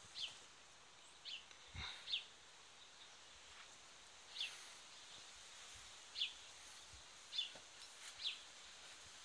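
A bird calling repeatedly, short chirps that slide down in pitch, about one a second and sometimes in pairs, over a faint outdoor hiss. A single soft thump about two seconds in.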